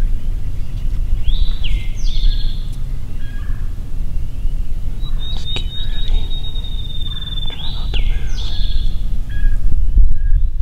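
Songbirds singing over a steady low rumble: a high swooping note followed by a fast trill comes twice, about a second in and again near eight seconds, with a long high trilled note between them.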